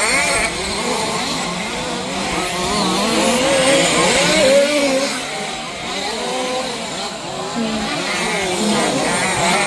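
Several 1/5-scale petrol two-stroke RC off-road cars racing together, their engines buzzing and rising and falling in pitch as they accelerate and back off.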